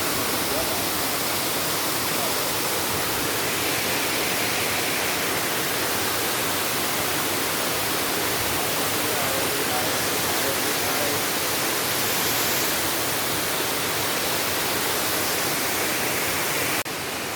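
Steady rushing of river water over rocks, loud and even, dropping suddenly near the end.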